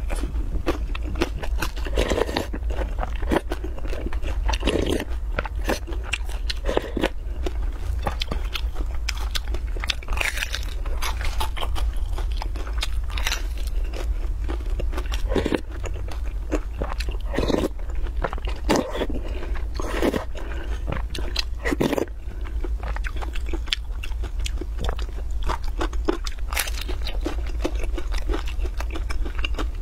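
Close-up biting and chewing of a crisp pan-fried flatbread: repeated crunchy bites and crackles between wet chewing, over a steady low hum.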